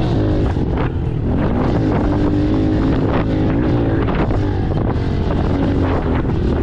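Pit bike engine revving up and down as it is ridden over rough ground, with wind buffeting the helmet-mounted microphone.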